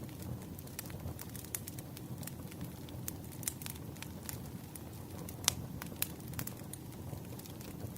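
Wood fire crackling: irregular sharp pops and snaps over a steady low rumble, with the loudest pops about five and a half and six seconds in.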